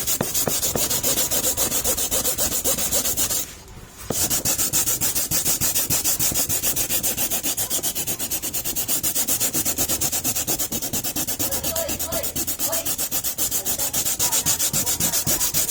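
Abrasive paper rubbed quickly back and forth over the cured resin of a carbon-fibre fairing skin, about five or six strokes a second, keying the surface. The strokes pause briefly about three and a half seconds in, then carry on.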